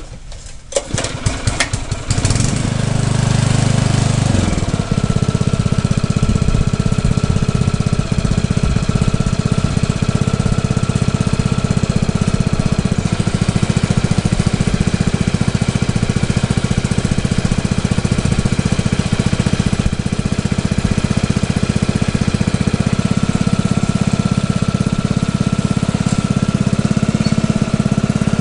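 New Briggs & Stratton single-cylinder engine on a Troy-Bilt rototiller being started for the first time: a few clicks, then it catches about two seconds in, runs higher for a couple of seconds and settles into steady running.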